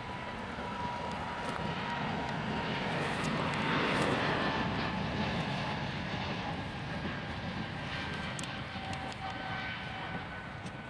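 Jet airliner passing by, its engine noise building to a peak about four seconds in and then fading, with an engine whine that falls slightly in pitch as it goes past.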